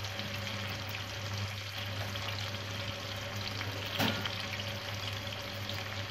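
Chicken pieces pre-frying in cooking oil in a nonstick pan, sizzling and crackling steadily, with a steady low hum underneath. About four seconds in there is a single sharp tap.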